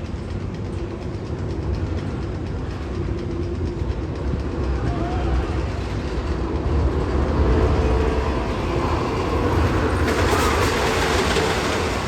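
Magnum XL 200 steel roller coaster train rumbling along its track, the noise building over several seconds and turning brighter and hissier near the end.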